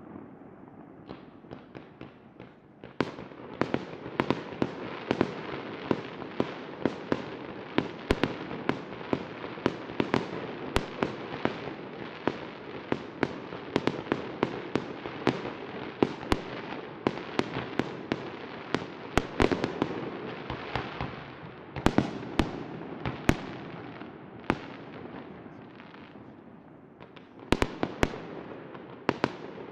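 Fireworks display: a rapid, dense string of sharp bangs and cracks over a steady din, thinning briefly before a few loud cracks near the end.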